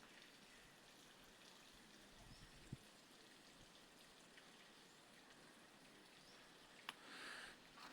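Near silence: faint outdoor hiss, with a soft tick a few seconds in and a sharp click and a brief rustle near the end.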